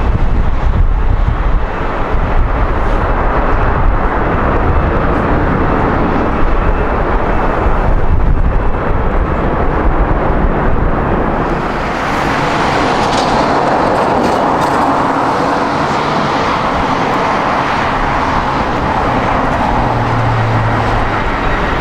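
Jet airliner engine noise at close range, loud and continuous: a deep rumble for the first half, giving way about halfway through to a brighter, higher hissing engine noise.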